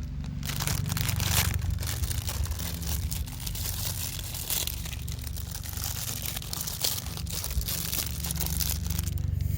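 Irregular crinkling and crunching rustle, with many small clicks, over a steady low hum.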